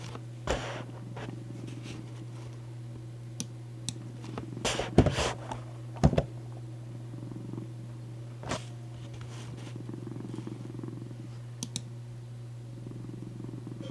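A cat purring steadily, with a few short rustles or knocks; the loudest come about five and six seconds in.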